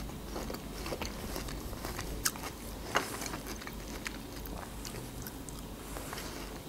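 Close-miked chewing of juicy melon, with wet mouth sounds and a few sharp clicks, the loudest about two and three seconds in.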